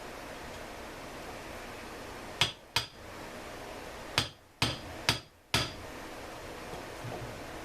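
Hammer tapping on a metal part, six sharp knocks in three quick pairs, over a steady background hiss.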